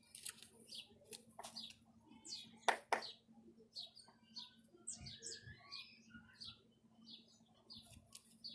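Birds chirping: many short, high calls with a few gliding notes, faint throughout. Two sharp clicks come about three seconds in.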